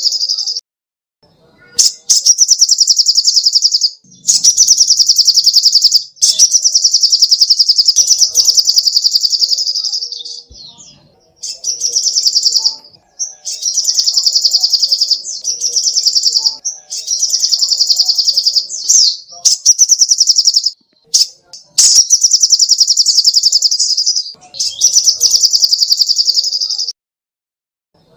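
Sogok ontong (spiderhunter) songbird singing fast, high, rattling trills in phrases of one to three seconds with brief pauses between: a birdsong tutor recording for caged songbirds.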